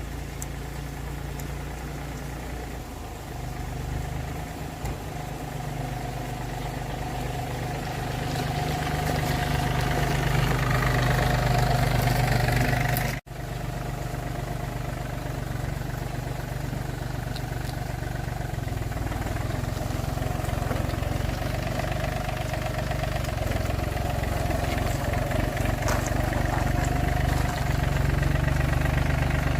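An engine running steadily, growing louder over the first dozen seconds, with a brief cut about 13 seconds in before it carries on.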